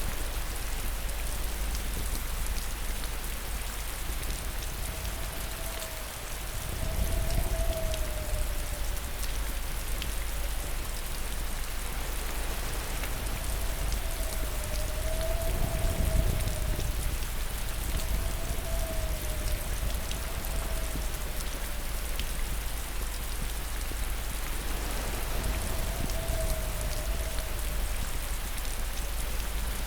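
Steady heavy rain falling, a dense even hiss of drops, with a low swell about 7 s in and another about 16 s in. A faint wavering high tone comes and goes over it.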